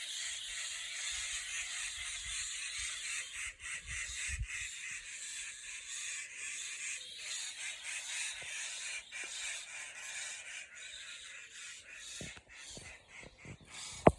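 Birds chirping and calling together in a dense, steady chorus, with soft low rumbles of wind or handling and a sharp click near the end.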